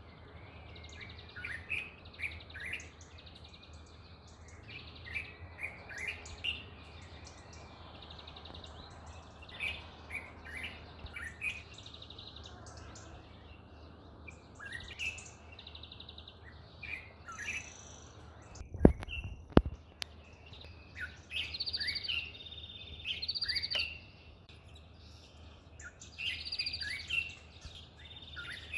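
Small birds chirping in short, sharp repeated calls in scattered clusters. Two loud knocks come close together about two-thirds of the way through.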